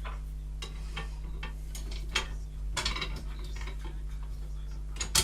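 Irregular clinks and taps of small metal parts being handled, over a steady low electrical hum.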